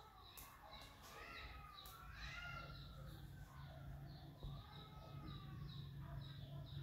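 Faint bird calls: a run of sliding whistled calls in the first half, and short chirps repeating a few times a second throughout, over a steady low hum.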